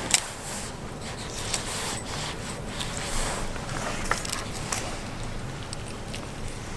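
Scrapes and small clicks from a knife cutting into and working at a python's skin to start skinning it.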